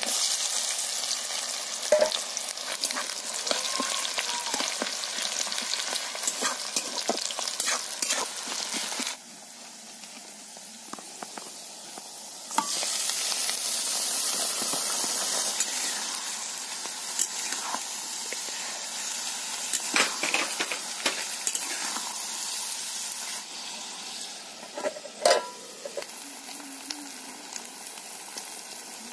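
Hot oil sizzling and spitting in a kadai as sliced onions fry, with scattered clicks of stirring. About nine seconds in the sizzle dies down, then it flares up loudly again a few seconds later as a batch of small fish goes into the oil, and it eases off near the end.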